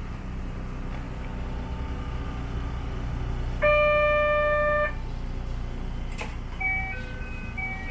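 Narrow-gauge electric train standing at the platform with a steady low hum. About three and a half seconds in, a loud steady electronic tone sounds for just over a second. Near the end a click is followed by a few short chime notes.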